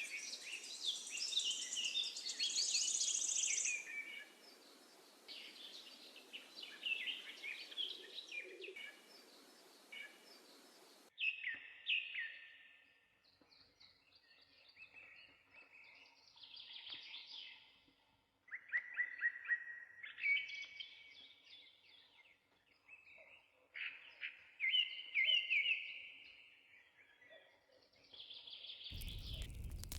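Wild songbirds singing and chirping, several overlapping phrases of quick chirps and trills. A steady hiss behind them stops abruptly about eleven seconds in, and a crackling noise comes in near the end.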